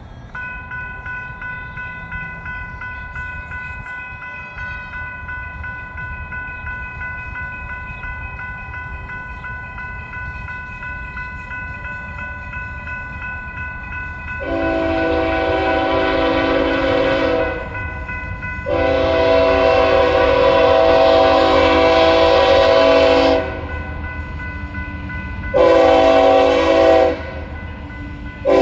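Grade-crossing warning bell ringing steadily over a low rumble; about halfway in, a BNSF freight locomotive's air horn sounds two long blasts and a short one, and starts another right at the end. This is the standard long-long-short-long warning for a level crossing.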